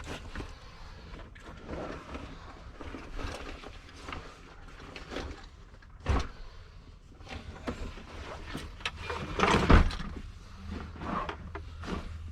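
Someone moving about inside a lorry cab's sleeper area: fabric rustling and handling noises, a sharp knock about six seconds in and a louder thump about three and a half seconds later.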